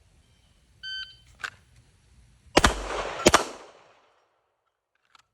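A shot timer beeps once, then a Canik Rival S 9mm pistol fires two quick shots about two-thirds of a second apart, each echoing briefly.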